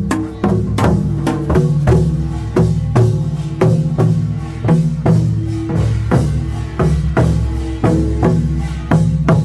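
Korean pungmul farmers' band playing: kkwaenggwari small gongs clanging with janggu and buk drums in a steady beat of about two strikes a second, the gongs ringing on between strikes.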